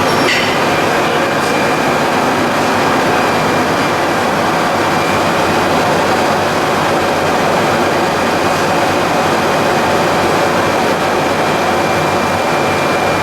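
Machinery of a PE and calcium carbonate pelletizing line running, a loud, steady industrial noise with a faint high steady whine through it.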